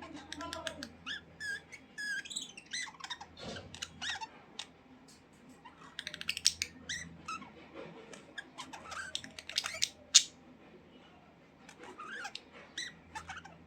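Budgerigars chattering: an irregular run of short chirps, squawks and warbling calls, with sharp clicks in between.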